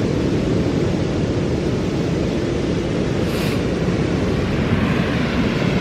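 Wind blowing across the microphone over the steady wash of ocean surf, with a brief higher hiss a little past halfway.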